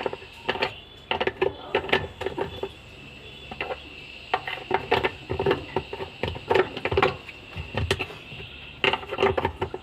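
Irregular clicks and knocks of hard parts being handled and fitted as a washing machine is put back together.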